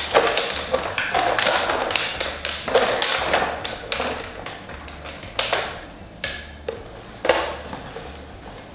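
Paper lottery tickets being mixed in a raffle barrel: a dense run of rustling and clicking for about four seconds, then a few scattered clicks and rattles.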